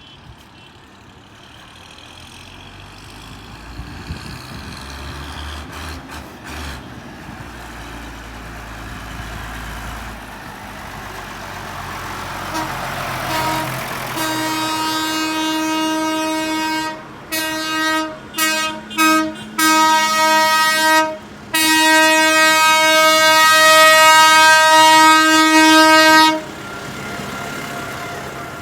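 Passing tractors running, growing louder, then a single-note horn sounds: a long blast about halfway through, a run of about four short toots, and a second long blast that cuts off sharply near the end.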